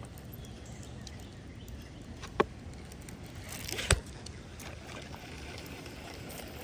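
Two sharp clicks or knocks about a second and a half apart over a steady low outdoor background. The second click is louder and comes right after a brief rising swish.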